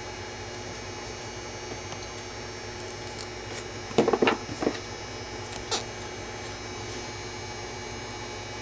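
Pliers handling thin 24-gauge wire: a quick cluster of light clicks and scrapes about four seconds in and one more click shortly after, over a steady low background hum.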